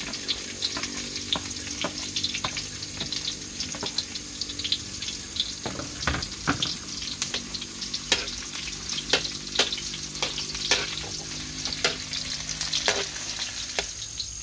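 Onions and garlic sizzling in hot oil in a wok as they start to brown, stirred with a spatula that clicks and scrapes against the pan many times.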